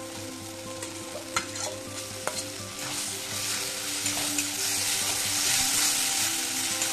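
Fried potato pieces sizzling in onion-tomato masala in a metal kadai as a spatula stirs them in, with a few sharp clicks of the spatula against the pan in the first couple of seconds. The sizzle grows louder from about halfway through.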